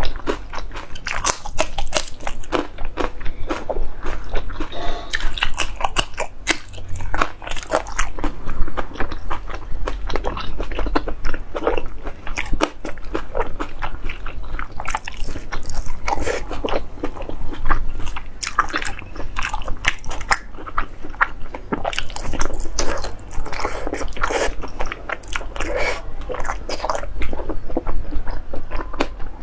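Close-up chewing and biting of braised pork intestine: a dense, irregular run of sharp clicks and crunches from the mouth.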